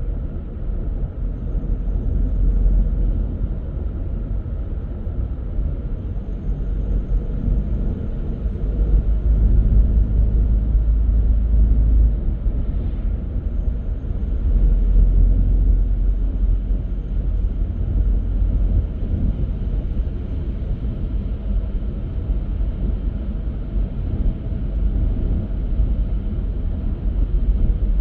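Car driving along a road: a steady low rumble of tyre and engine noise that swells and eases a few times.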